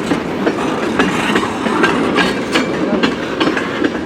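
CN freight train cars rolling past as the train slows to a stop, wheels clacking irregularly over rail joints under a steady rumble.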